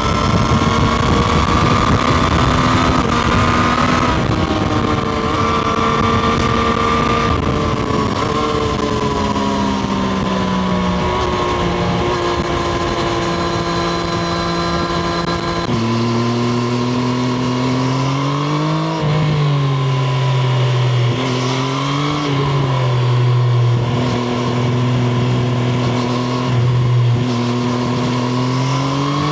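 Triumph Street Triple RS's 765 cc three-cylinder engine heard from the bike while riding, the revs stepping with gear changes and falling away with heavy wind rush at speed. About halfway through the wind noise stops suddenly, and the engine carries on at lower, steadier revs with a few short rises.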